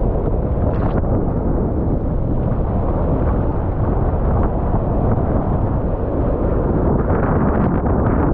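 Strong wind buffeting the microphone, a loud steady rush, mixed with water noise from a catamaran sailing in strong wind.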